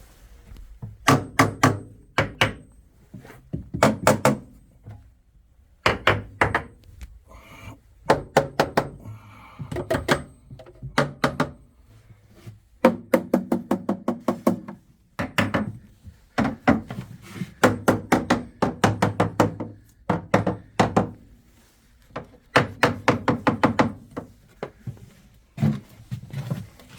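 Hammer tapping along a power boat's engine stringers, in quick runs of several strikes with short pauses between, each a short knocking thunk: a surveyor's hammer test sounding the stringers for hollow, soft spots.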